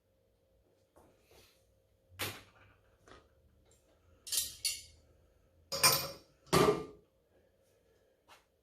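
Metal clanking of loaded weight plates and lifting gear: a handful of sharp clanks, the two loudest coming close together just past the middle.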